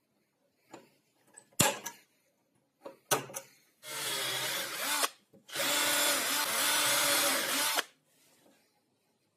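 A power tool's motor runs in two short bursts, the second about two seconds long, after a few sharp knocks and clatter in the first seconds.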